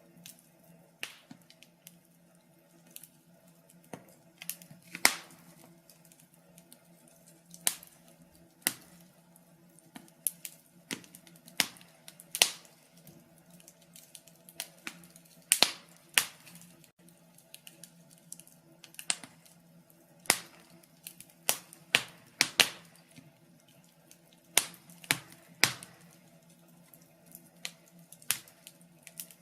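Wood fire in a fireplace crackling, with irregular sharp pops, a few of them much louder than the rest.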